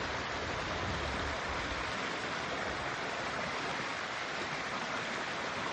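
Stream water flowing over rocks: a steady, even rushing.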